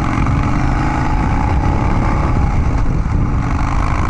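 2015 Harley-Davidson Dyna Street Bob's V-twin engine running under way through Vance & Hines Big Radius 2-into-2 exhaust pipes. The exhaust note is steady and low, and its pitch rises slightly over the first couple of seconds.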